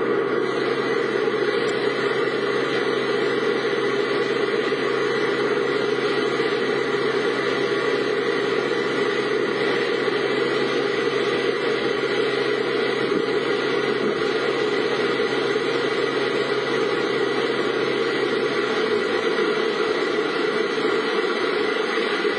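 A car's engine and road noise heard from inside the cabin, a steady hum whose low note shifts in pitch near the end.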